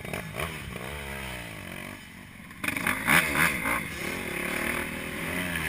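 Motocross bike engine revving up and down, with a louder burst of revving starting about two and a half seconds in.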